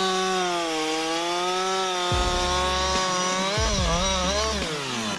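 Chainsaw running at high revs, its pitch wavering as it works, with a low rumble coming in about two seconds in. Near the end the revs dip and recover, typical of the saw bogging under load in the cut.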